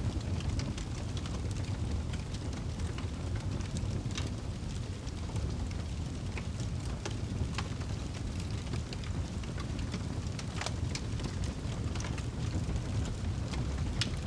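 Fire in a fireplace crackling: scattered sharp pops and snaps over a steady low rumble of the flames.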